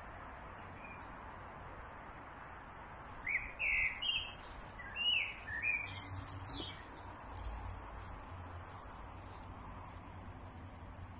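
A songbird chirping: a quick run of about half a dozen short chirps starting about three seconds in, then a few higher, thinner notes, over steady outdoor background hiss.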